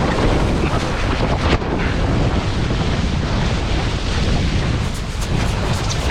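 Heavy wind buffeting the microphone while windsurfing: a loud, steady rumble of wind noise.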